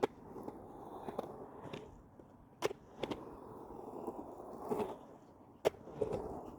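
Skateboard rolling, its wheels giving a rumble that swells and fades, broken by several sharp clacks of the board.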